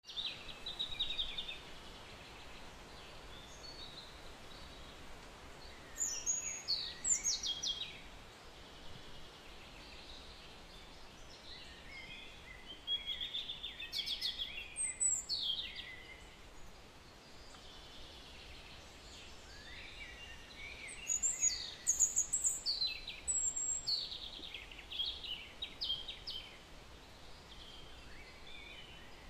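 Birds chirping in several short spells of quick, falling calls, over a faint steady background hiss.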